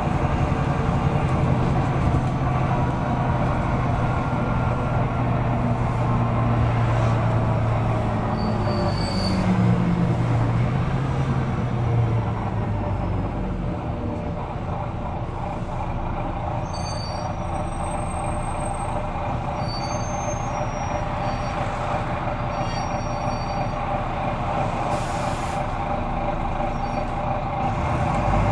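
Volvo B9TL double-decker bus's diesel engine running under way, heard on board. Its note climbs in pitch for a few seconds before dropping back about twelve seconds in and running lower and steadier. A bus that over-revs: it revs high before changing gear. Short high squeaks come in the middle.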